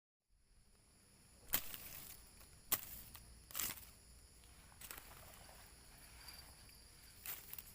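Quiet outdoor ambience with a steady high insect drone, broken by five or six sharp rustling snaps and clicks, the loudest about a second and a half in.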